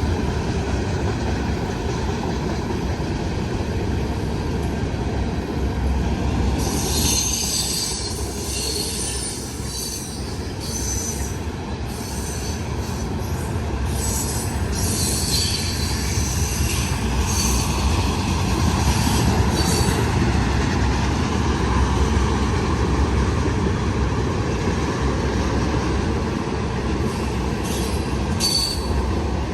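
Loaded freight cars of a long CN freight train rolling past: a steady low rumble of wheels on rail, with high-pitched wheel squeal coming and going from about seven seconds in.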